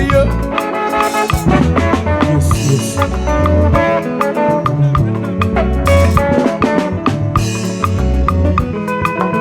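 Live band music in an instrumental stretch without singing: a steady drum beat with bass notes under melodic instrument lines.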